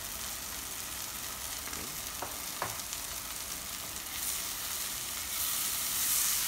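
Masala frying in a pot of hot ghee, oil and yogurt: a steady sizzle as ground spices go in, growing louder from about four seconds in as the mixture is stirred with a spatula.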